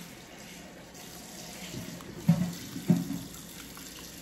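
A person biting and chewing crisp-edged fried green plantain, with two short loud mouth sounds about two and three seconds in, over a steady hiss.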